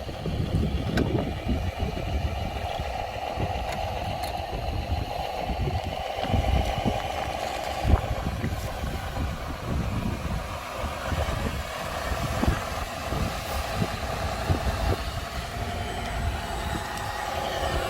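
Radio-controlled model dump truck running: a steady motor whine over an uneven low rumble, with a few sharp clicks.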